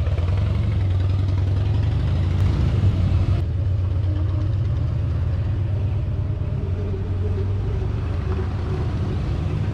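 Steady wind buffeting on the microphone and road rumble while riding a 2021 Zero S electric motorcycle in traffic. The bike's electric motor is itself nearly silent.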